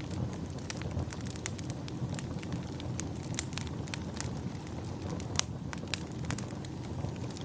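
Fireplace fire crackling, with irregular sharp pops and snaps, a few of them louder, over a steady low rumble.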